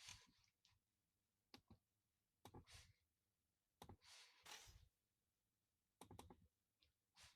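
Faint close-miked ASMR sounds: a few scattered sharp clicks and short bursts of rustling, each lasting under a second, with quiet gaps between them.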